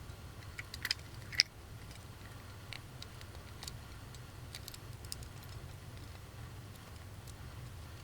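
Faint, scattered clicks and taps of small plastic capsule sound toys being handled, over a low steady hum; the sharpest click comes about one and a half seconds in.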